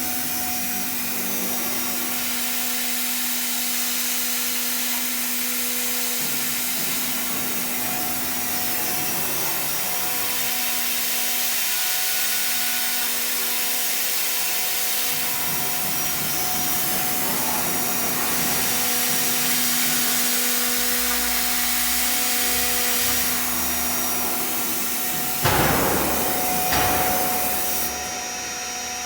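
CNC milling machine for aluminium profiles running: a steady spindle whine over a high, hissing cutting noise. Two sudden loud bursts come near the end.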